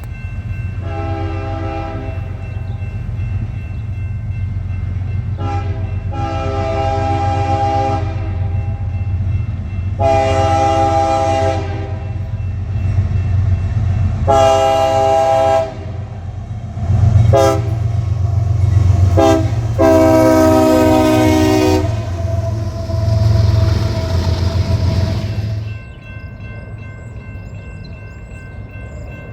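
Freight train locomotive's multi-note air horn sounding a series of long and short blasts over the low, steady rumble of the passing train. The horn and rumble stop about three quarters of the way through, leaving a few faint high steady tones.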